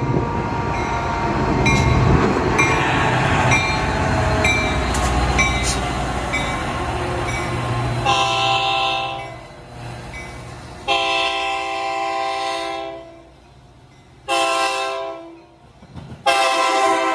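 Metra commuter train passing close by at speed, the steady rumble of wheels on rail filling the first half. Then a multi-note train horn blows four blasts, long, long, short, long: the standard grade-crossing signal.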